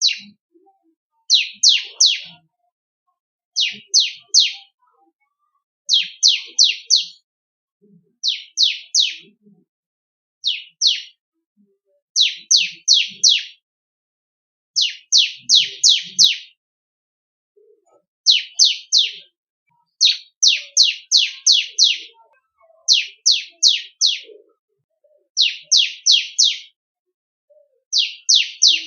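Bar-winged prinia (ciblek kristal) singing. It repeats short phrases of three to six rapid, high notes that sweep sharply downward, with a phrase about every two seconds and short silences between.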